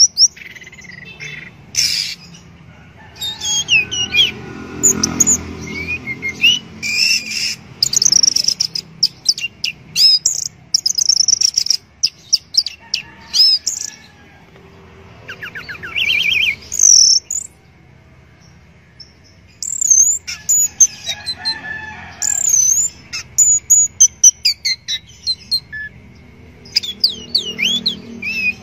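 Orange-headed thrush (anis merah) singing: quick runs of varied whistled and trilled phrases with fast up-and-down sweeps, broken by short pauses.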